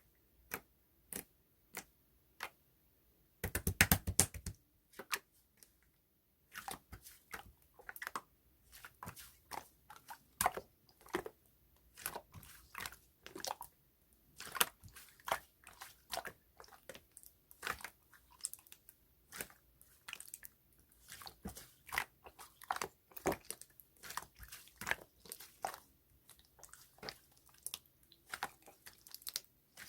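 Clear slime being worked by hand, giving irregular small clicks and pops, several a second, with a dense crackling cluster about four seconds in.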